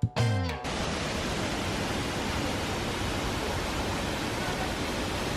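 Waterfall of the Río Celeste: a steady, even rush of falling water. The last notes of a piece of music, with a falling tone, cut off about half a second in.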